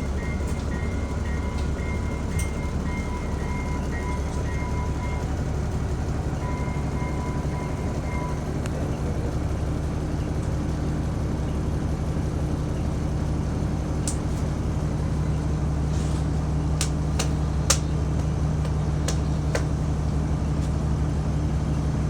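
Bus engine idling with a steady low hum, heard from inside the bus. A repeating high ding sounds through the first eight seconds or so, and a handful of sharp clicks come later.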